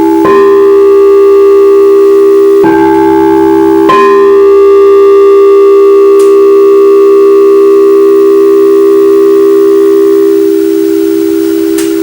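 Crystal singing bowls ringing in long, steady overlapping tones. New notes come in right at the start and again at about three and four seconds. The higher tones fade out near the end while a deep tone keeps sounding.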